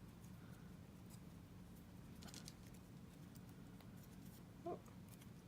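Near silence, with a few faint, brief rustles of cardstock being folded by hand.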